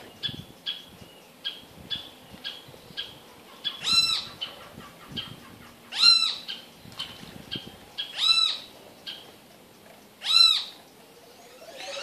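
Birds calling in a tropical garden: a steady run of short, high chip notes about twice a second, over which a louder call, rising then falling in pitch, comes four times about two seconds apart.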